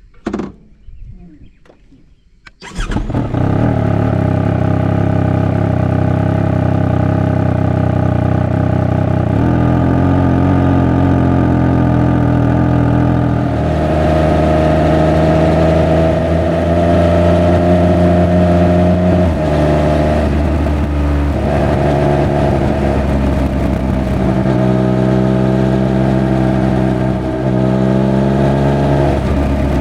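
Triumph Speed Triple 1200 RR's three-cylinder engine starts about two and a half seconds in and runs loud and steady. Its pitch shifts in steps a few times.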